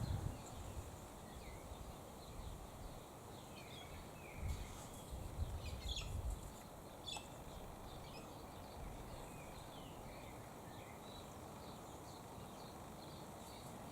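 Faint outdoor ambience with scattered small bird chirps throughout, and a few low rumbles of wind on the microphone around the middle.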